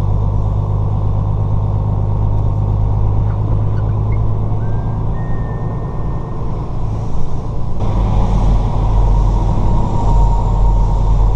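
Semi-truck's diesel engine running, heard from inside the cab as a steady low drone. About eight seconds in, it gets louder and heavier.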